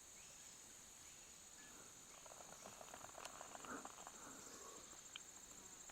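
Faint, steady high-pitched chirring of crickets or grasshoppers, with a few faint ticks.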